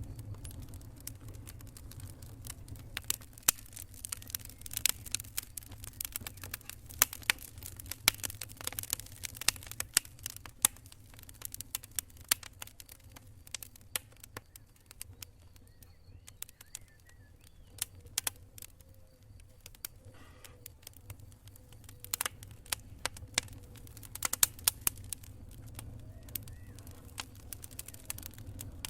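Wood campfire crackling: irregular sharp pops and snaps, thickest in the first half and again near the end, over a low steady rumble.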